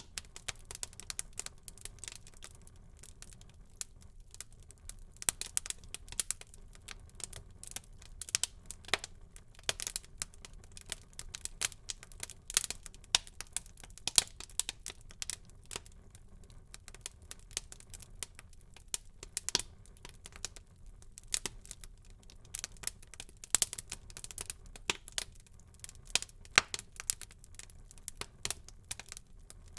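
Wood fire burning in a fireplace, crackling with irregular sharp pops, sometimes several close together, over a low steady background rush.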